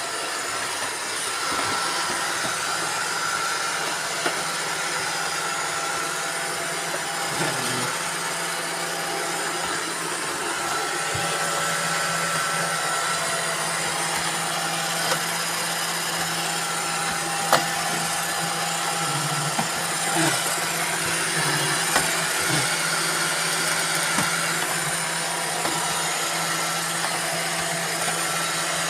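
Several robot vacuum cleaners running at once, a steady motor and brush whir with a few hum tones, broken by occasional sharp clicks.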